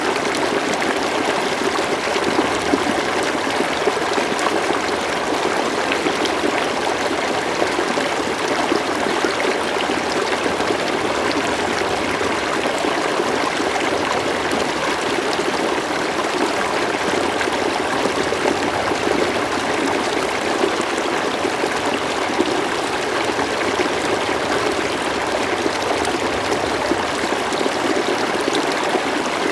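River water flowing and burbling in a steady, even rush.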